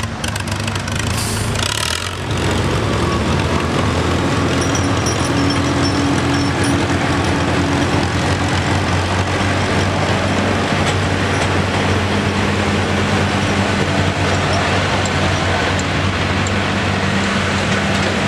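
Farm tractor engine running loud and steady close by, its drone picking up sharply about two seconds in and then holding.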